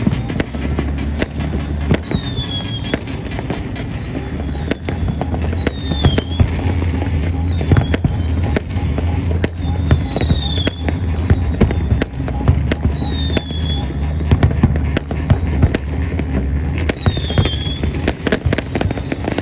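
New Year fireworks going off in rapid bangs and crackles over loud music with a heavy bass, and a falling whistle about every four seconds.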